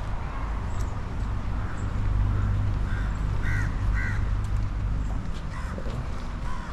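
Crows cawing: a few short, arched caws, the clearest pair about three and a half to four seconds in, over a steady low rumble.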